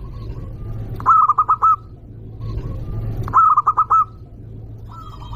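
Zebra dove (perkutut) cooing twice, each a quick run of four or five loud notes, with faint chirps of other small birds near the end.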